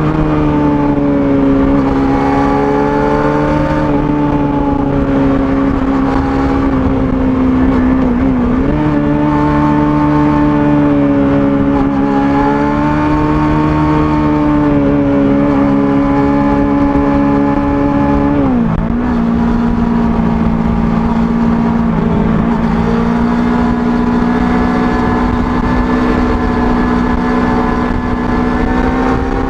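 Kawasaki ZX25R's 250 cc inline-four engine running at high, fairly steady revs through its stock exhaust while riding. The pitch dips briefly twice, about a third and two thirds of the way in, and sits a little lower after the second dip.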